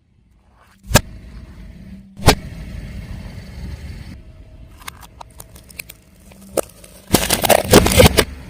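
A car tyre rolling over and crushing objects: two sharp cracks about a second apart, then scattered small cracks, and a dense run of crunching near the end. A low rumble from the car runs underneath.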